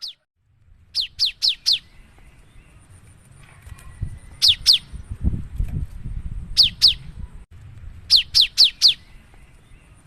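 Cinereous tit (gelatik batu) singing in short rapid runs of two to four sharp, falling whistled notes, repeated every couple of seconds. A low rumble sits underneath in the middle.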